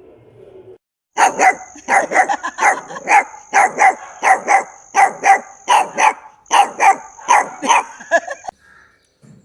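Puppy barking in a rapid run of short barks, about three a second, starting about a second in and stopping shortly before the end.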